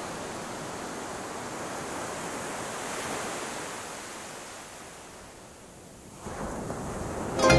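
Ocean surf: a wave swells and washes out, then another starts to build near the end.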